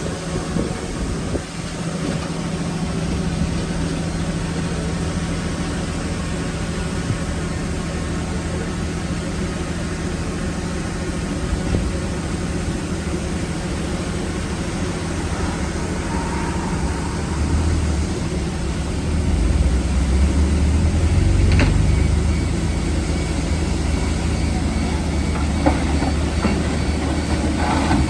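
Diesel engine of heavy earthmoving equipment running steadily, swelling into a louder low rumble about two-thirds of the way through as it works under load. A sharp click comes just after that, and a few metallic knocks near the end.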